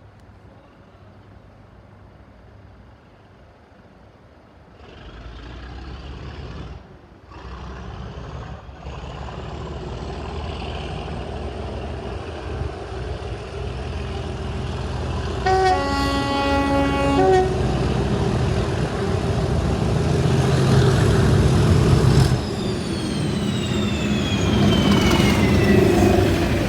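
Class 37 diesel locomotive with an English Electric 12CSVT engine approaching under power, growing steadily louder. It sounds its horn for about two seconds a little past halfway, then passes close with a falling whine.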